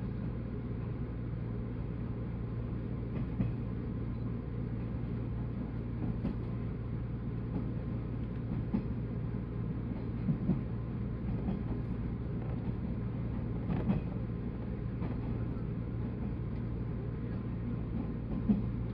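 Running noise of a 185 series electric multiple unit heard from aboard: a steady low rumble with a few scattered light knocks from the wheels and car body.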